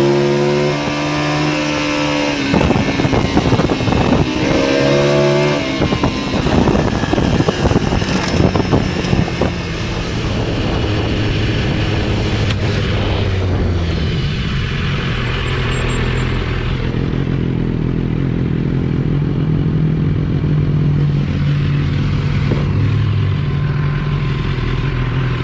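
Motorcycle engine running, revving in the first few seconds amid a rough, clattering noise, then settling into a steady low idle for the rest.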